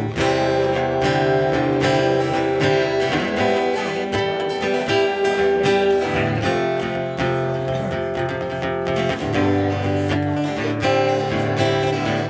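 Guitar strumming the instrumental intro of a rock song played live, with a bass line under it and no singing yet.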